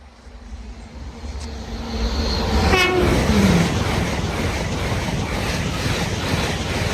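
LNER Class 801 Azuma electric express train passing a level crossing at speed. Its noise builds over the first two seconds into a loud, steady rush, with a brief tone dropping sharply in pitch about three seconds in as the front of the train goes by.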